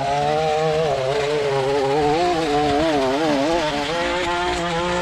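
Small petrol engine of lawn equipment running under load, its pitch wavering up and down.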